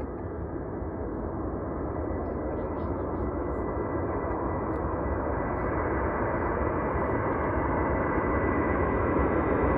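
Jet aircraft engines approaching, a steady rushing rumble with a thin high whine, growing steadily louder.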